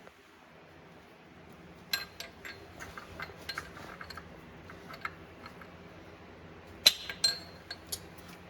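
Metal tractor transmission parts and hand tools clinking as they are handled: a run of light clinks, then two louder ringing clanks, over a steady low hum.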